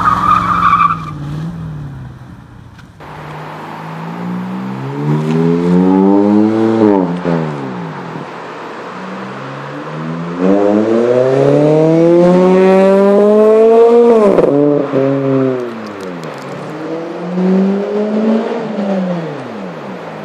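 A car engine revving hard in three pulls, its pitch climbing and then dropping sharply each time; the longest and loudest pull comes in the middle. A high steady squeal, such as tyres, ends about a second in.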